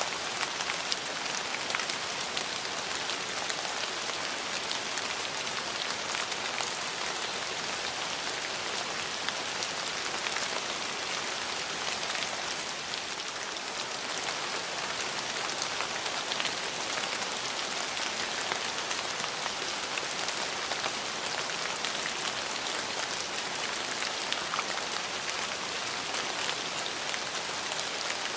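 Steady rain falling: an even hiss dotted with many small ticks of individual drops.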